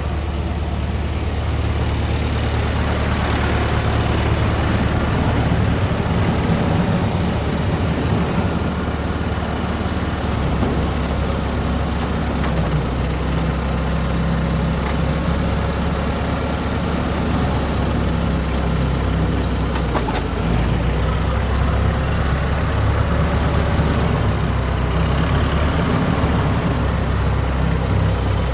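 Engine of a farm machine running steadily at low speed, an even low hum with no revving.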